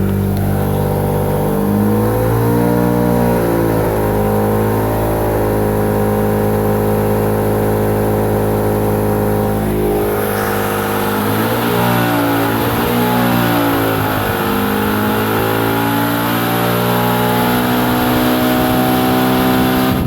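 Mazda RX-8's twin-rotor Renesis rotary engine running at raised revs with an unusual note that comes through the exhaust. The revs rise about two seconds in, hold steady, dip and recover around the middle, then hold again. The engine is misfiring and logging a P0301 code for the first rotor, which swapped coil packs and spark plugs have not cured.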